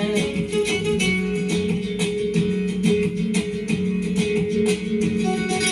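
Instrumental Latin rumba-style music: strummed acoustic guitars playing a fast, steady rhythm with a bass line.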